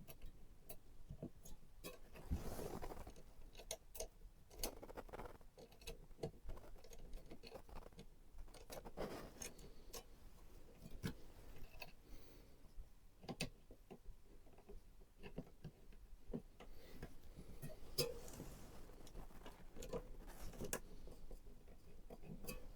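Hands handling and fitting PC components: irregular small clicks, taps and brief rustles of plastic and metal parts, fairly quiet.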